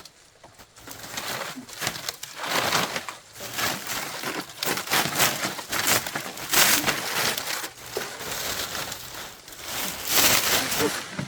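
Old thatch roofing leaves rustling and crackling in repeated bursts as they are handled and sorted.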